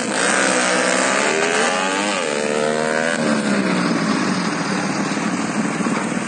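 Yamaha Exciter 150 motorcycle engines revving, more than one at a time, their pitch falling and rising again and again, with a steep rise and drop about two to three seconds in.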